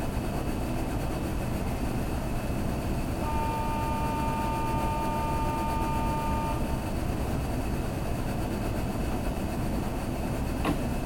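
Kintetsu limited express train running, heard from inside the passenger cabin as a steady rumble and hiss. A steady high-pitched tone rings over it for about three seconds, starting a few seconds in.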